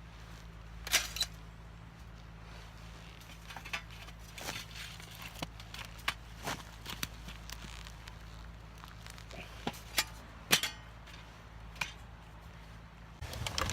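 Scattered light metallic clicks and clinks, irregularly spaced, from metal camp cookware and stove parts being handled.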